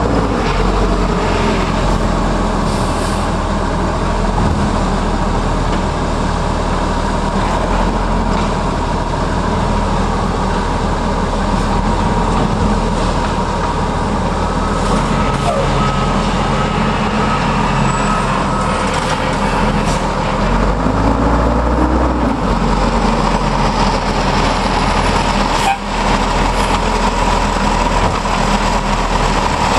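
Garbage truck's diesel engine running steadily, revving up briefly about two-thirds of the way through.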